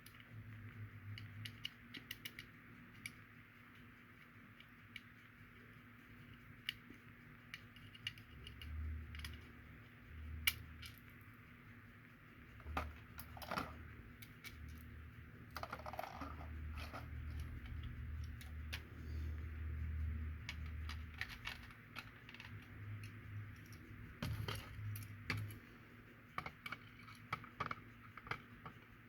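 Faint clicks, ticks and light rattles of small diecast metal and plastic model-kit parts being handled and worked apart. Low dull thumps come and go through the middle and later part.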